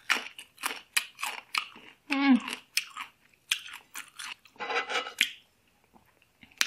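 Chewing slices of raw young green mango, with a quick run of sharp crunches. A short voiced moan breaks in about two seconds in.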